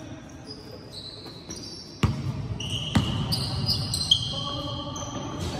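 Basketball bouncing on a hardwood gym floor, two sharp bounces about a second apart midway, with sneakers squeaking on the court in many short high chirps.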